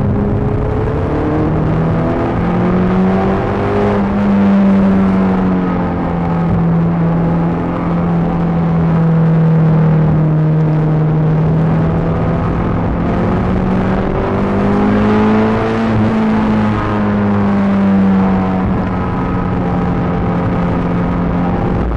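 Peugeot 306 GTi-6's four-cylinder engine heard from inside the car under hard driving. Its pitch climbs and falls repeatedly as it accelerates, lifts and changes gear.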